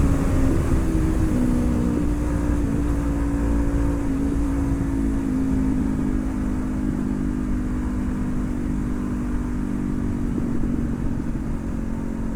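Honda CB500F's parallel-twin engine running at a fairly steady cruise, its pitch shifting slightly up and down, easing off a little in the first couple of seconds.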